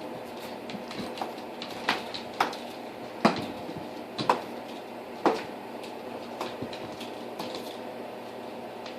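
Cats playing with a teaser toy, jumping and landing on a bare floor: about five sharp thumps in quick succession in the middle of the stretch, with lighter taps and scuffs between them, over a steady room hum.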